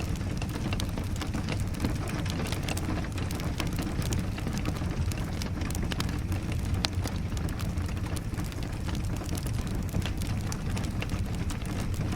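Steady rain mixed with the crackle of a wood fire: a constant low rush dotted with many small crackles and pops.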